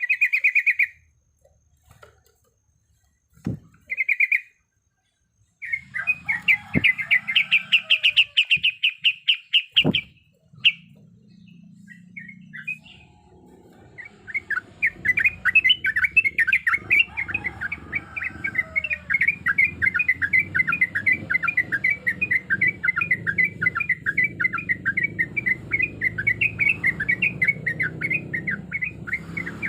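Yellow-vented bulbul calling: a few short call notes, then a fast rattling trill, and from about halfway a long, continuous rapid chattering trill. A low steady rumble sits underneath.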